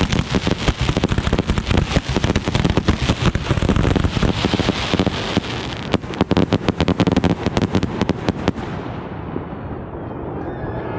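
Fireworks going off in a dense run of rapid cracks and bangs. The cracks stop about eight and a half seconds in, leaving a fading rumble and hiss.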